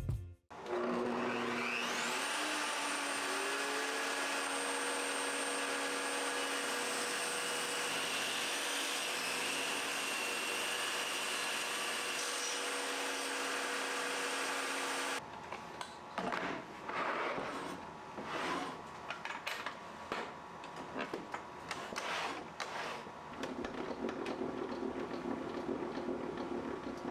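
An electric woodworking power tool spins up with a rising whine and then runs steadily. About halfway through it gives way to irregular working noise, with uneven strokes and a hum.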